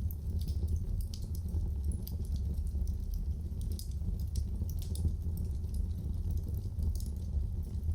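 Wood fire burning in a fireplace: a steady low rumble with many small, sharp crackles and pops at irregular intervals.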